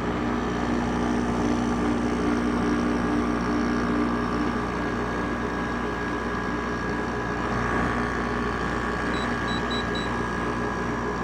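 Haier 5000 BTU window air conditioner running steadily with its compressor on and fan at high speed: an even hum and airflow whir. There is no bearing squeal from the fan motor, whose bearings have just been replaced.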